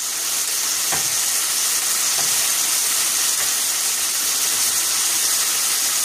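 Cubed chicken thigh sizzling steadily in a pan, cooking without oil in its own juices and vinegar, with a couple of faint knocks about one and two seconds in.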